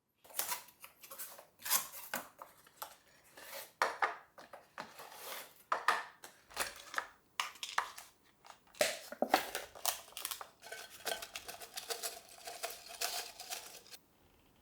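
Dishes and cutlery clinking and clattering as tableware is handled, with many quick sharp knocks and a short ringing tone between about eleven and thirteen seconds in.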